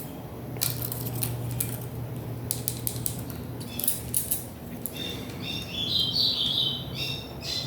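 Small sharp clicks and taps of a screwdriver, screws and plastic parts being handled while dismantling a stereo, over a steady low hum.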